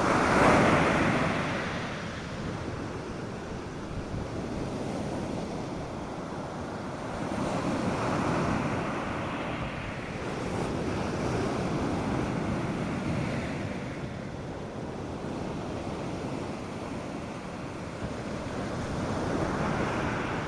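North Sea surf breaking on a sandy beach, waves rushing in and falling back in slow surges every few seconds. The loudest wave comes just after the start.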